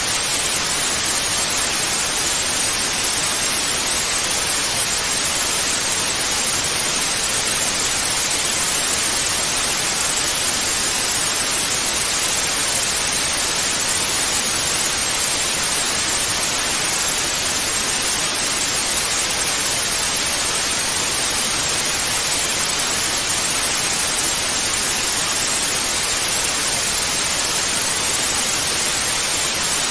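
Television static hiss (white noise), a steady even rush with no change in level, bright and hissy rather than deep.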